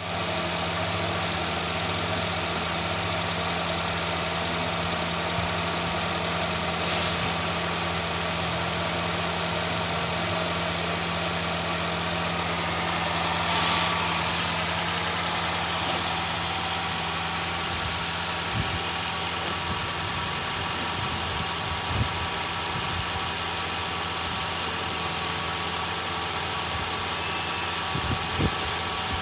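Nissan X-Trail 2.5-litre four-cylinder petrol engine idling steadily, with a brief swell about halfway through and a few light clicks near the end.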